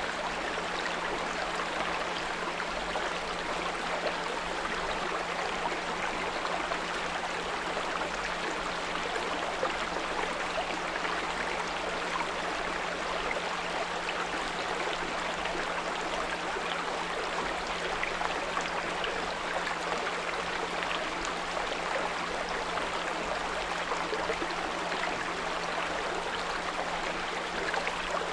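Small brook flowing steadily over stones, an even rushing and trickling of water, with a steady low 174 Hz pure tone laid underneath it.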